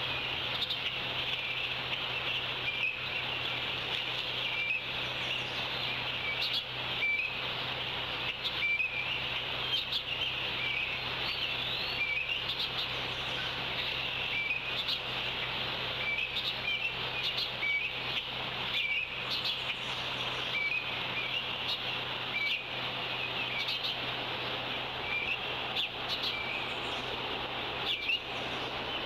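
Birds chirping, short calls repeated every second or two, over a steady high hiss and a low electrical hum.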